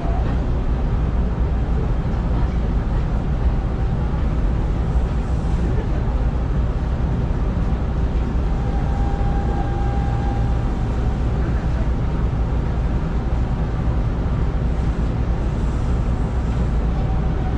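Hanshin 5500-series electric train running slowly along the track, heard from inside the driver's cab: a steady low rumble of wheels and running gear, with a faint brief whine about halfway through.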